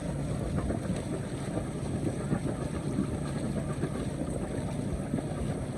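Canal tour boat's engine running with a steady low hum, under wind on the microphone and water noise.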